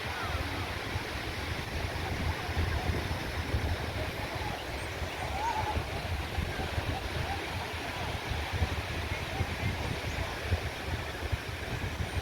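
Steady wash of ocean surf, with a low, uneven rumble underneath.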